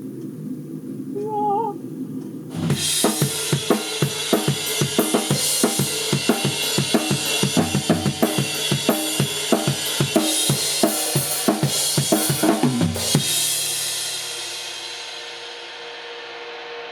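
Rock drum kit playing a fast, driving beat with kick, snare and crashing cymbals for about ten seconds, then stopping and letting the cymbals ring out and fade. A brief snatch of sung melody comes before the drums start.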